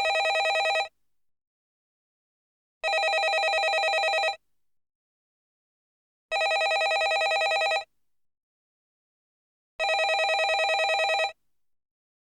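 Landline telephone ringing with a fast trill, in rings of about a second and a half separated by pauses of about two seconds; about four rings, the first already under way.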